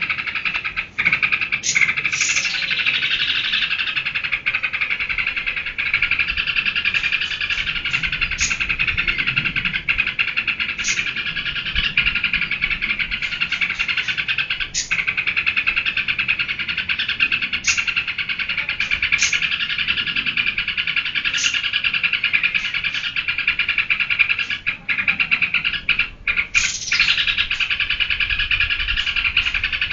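Yellow-vented bulbul (trucukan) singing nonstop in a rapid, continuous chattering song, broken by short sharp high notes every second or two.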